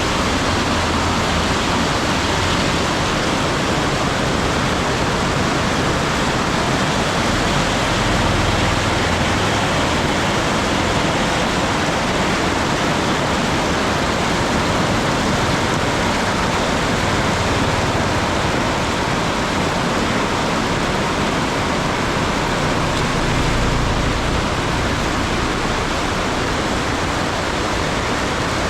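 Heavy rain pouring down in a steady, dense hiss, with a low rumble swelling now and then.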